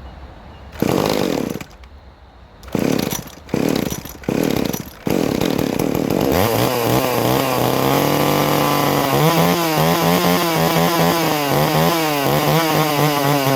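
Small two-stroke chainsaw engine firing in a few short bursts, then catching about six seconds in and running at high speed, its pitch wavering, before winding down and stopping near the end. The saw has a freshly fitted carburettor diaphragm kit and its low-speed mixture is being adjusted.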